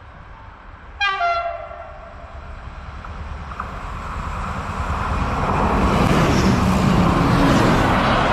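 Polregio diesel multiple unit sounding one short horn blast about a second in, then approaching with a rising rumble that grows loudest near the end.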